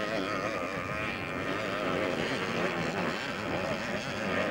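Several 250cc vintage motocross motorcycles racing around the track, their engines revving up and down in a shifting, wavering mix of pitches.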